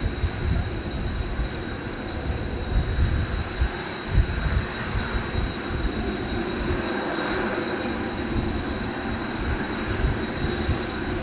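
Jet aircraft noise from the Blue Impulse's Kawasaki T-4 trainers, heard through gusty wind buffeting on the microphone that comes and goes in a low rumble.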